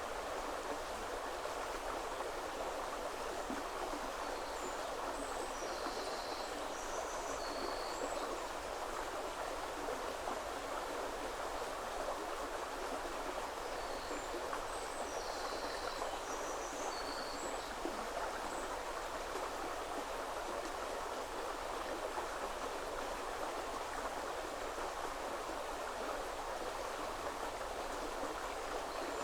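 River water flowing steadily with a continuous rushing sound. A small songbird sings a short, high, chirping phrase twice: about five seconds in and again about halfway through.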